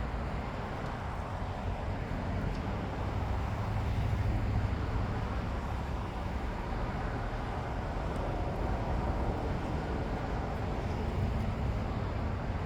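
Steady road traffic noise from passing vehicles, swelling a little about four seconds in.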